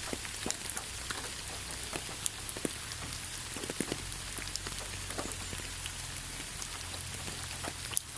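Steady rain falling, with many individual drops striking sharply and irregularly over an even hiss of rainfall.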